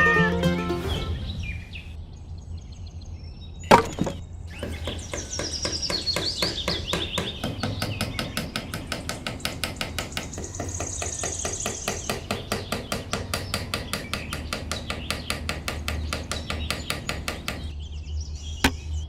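Hammer tapping in a steady, rapid rhythm of about four light strokes a second, after one sharp knock about four seconds in; birds chirp over it.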